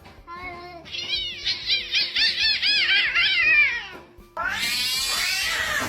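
An animal's calls: a quick run of short, high-pitched calls, each rising and falling, about five a second, then after a brief break about four seconds in, another stretch of falling calls.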